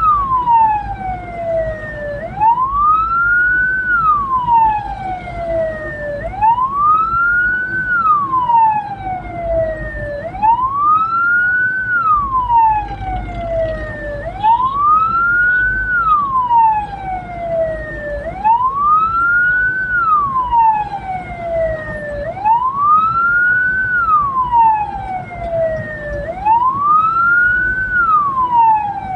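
Hearse siren wailing, its pitch rising and then sliding back down in a slow cycle about every four seconds, over the low rumble of the vehicle driving.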